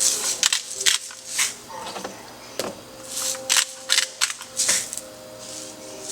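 Salt being sprinkled from a container onto fish fillets in a string of short, sharp, rasping bursts.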